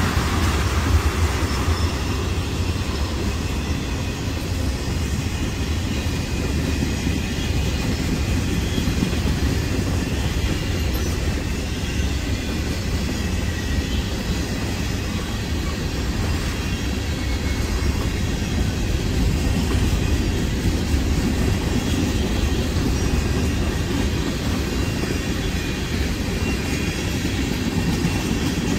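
A CSX freight train's tank cars and boxcars rolling steadily past, with a continuous low rumble of steel wheels on the rails.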